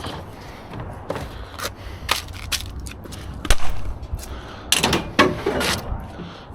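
Scrap metal being handled in a dumpster: scattered clanks and knocks with short scrapes, and a cluster of louder rattling knocks about two-thirds of the way through.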